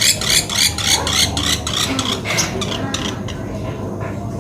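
Woodpecker (pelatuk beras) calling a rapid, even series of sharp, high notes at about five a second. The series trails off about three seconds in.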